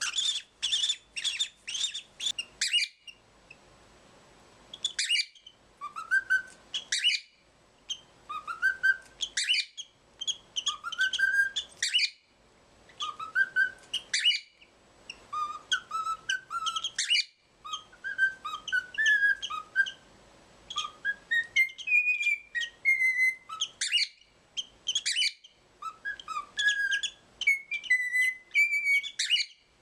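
Cockatiel chirping and whistling: a quick run of sharp chirps at first, then a string of short whistled phrases, each with a rising note, repeating every second or two.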